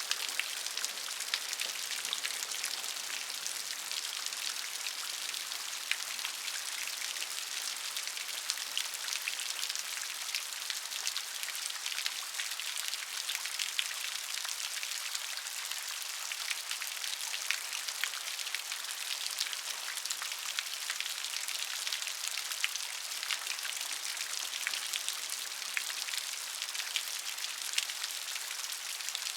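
Steady rain falling, a dense even patter of many separate drops striking a surface.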